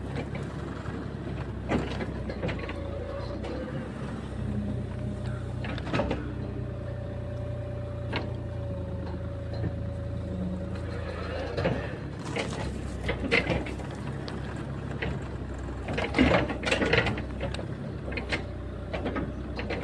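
Bobcat E37 compact excavator at work: the diesel engine runs steadily under a hydraulic whine that holds for several seconds in the first half, with knocks and clanks scattered throughout, thickest in the second half.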